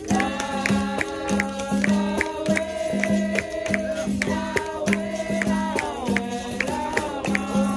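Capoeira roda music: berimbau with caxixi rattle and pandeiro keeping a steady repeating beat, under voices singing.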